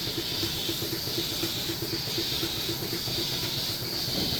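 Automatic milking robot's vacuum system running: a steady hiss with a rapid, regular ticking of about four beats a second.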